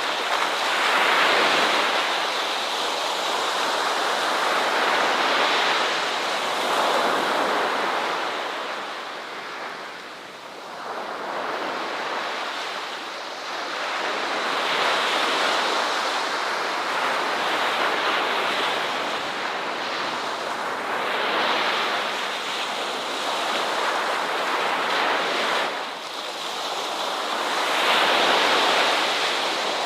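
Ocean waves breaking and washing on a shore, a continuous hiss of surf that swells and ebbs every few seconds.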